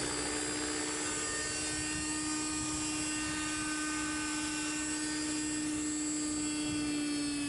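Raptor 30 nitro-engined RC model helicopter in a Hughes MD 500 scale body, flying. Its glow engine and rotors make a steady, high-pitched whine that holds one pitch.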